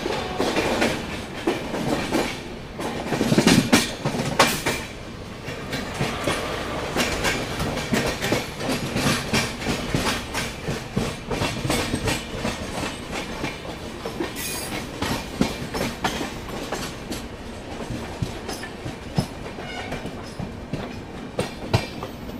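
Passenger coach wheels clattering over rail joints at speed, heard at an open coach door, with a steady rush of running noise. A louder burst of clatter comes about three to four seconds in.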